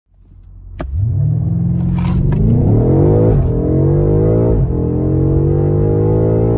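BMW M5 F90 Competition's twin-turbo V8 at a launch-control start, heard from inside the cabin. The engine comes in at held revs, then pulls hard at full throttle with its pitch rising, drops sharply at two quick upshifts about a second apart, and keeps climbing in third gear.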